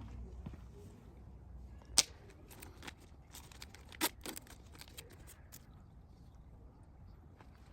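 A few sharp clicks and light rattling handling noise, with the loudest click about two seconds in and another around four seconds.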